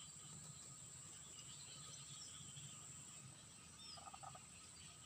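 Near silence: faint outdoor ambience with a steady high-pitched insect drone and a low rumble, and a brief faint chirp about four seconds in.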